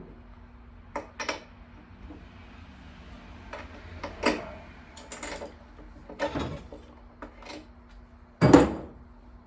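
Tools and parts being handled: scattered clicks and knocks, with a louder thump near the end, over a faint steady hum.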